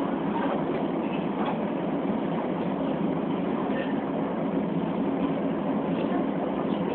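Subway train running between stations, heard inside the car: a steady rumble with a faint steady hum.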